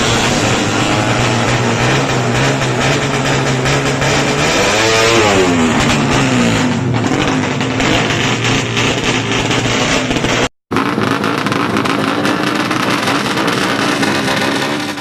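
A Suzuki Satria FU 155 cc motorcycle engine with an aftermarket racing exhaust, running hard. Its pitch holds steady, rises, then falls about five seconds in. The sound cuts out briefly about ten and a half seconds in, then the engine is heard again.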